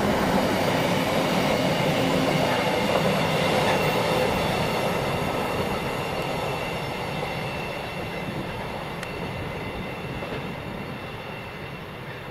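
Loaded container wagons of a long intermodal freight train rolling past on the rails, with wheel rumble and a thin steady high whine. The sound fades away over the second half as the train draws off.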